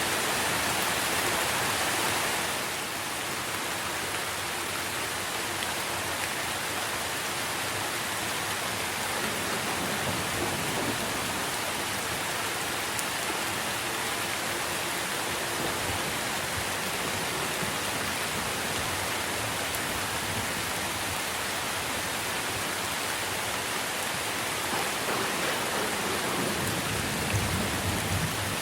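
Steady rain falling on tree foliage, an even hiss of drops that is a little heavier for the first couple of seconds, with a low rumble near the end.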